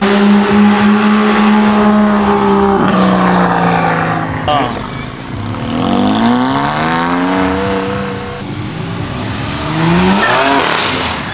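A car engine revving hard at a car meet's exit, held at high revs for about three seconds, then dropping in pitch and climbing again twice as the car pulls away.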